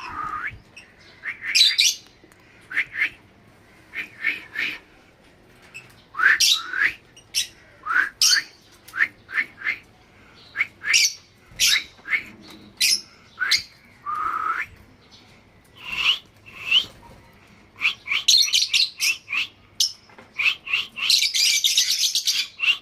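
Pet lovebirds calling in short, high-pitched chirps and squawks, with a dense burst of rapid chattering near the end.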